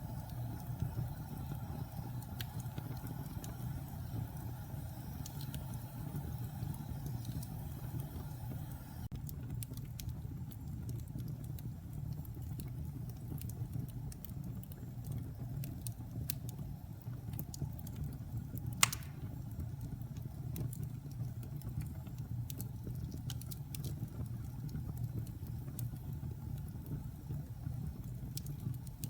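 Wood fire burning in a fireplace: a steady low rumble of flames with scattered small crackles, and one sharp, loud pop of a log about two-thirds of the way through.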